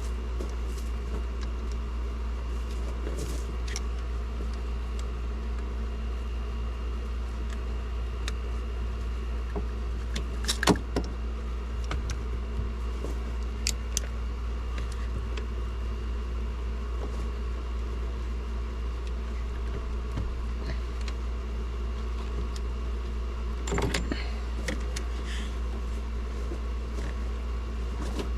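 Scattered metallic clicks and clinks of hand tools and engine parts being handled under the hood, over a steady low hum; the sharpest knock comes about eleven seconds in, with another cluster of clinks near the end.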